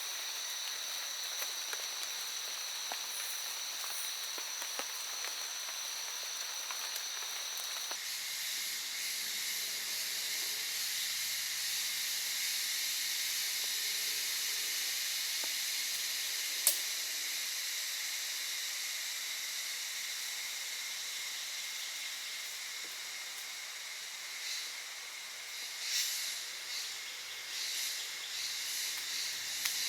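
Rain hissing steadily in forest. For the first several seconds insects keep up a high, steady drone over it, and a single sharp click sounds a little past the middle.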